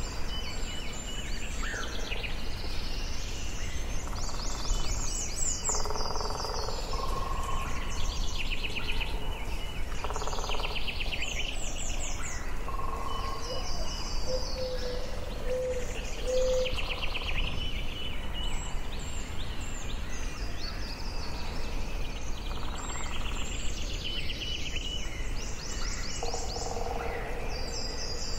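Forest ambience: several birds singing and calling throughout, with rapid trills and chirps overlapping, some lower short notes among them, over a steady low rumble.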